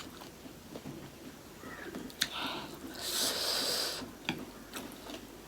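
Close-miked eating sounds from a person eating: small clicks and mouth noises, with a breathy sniff about three seconds in that lasts about a second.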